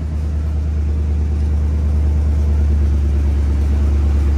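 1974 Chevrolet Camaro's engine running at a steady idle, an even low drone that slowly grows louder.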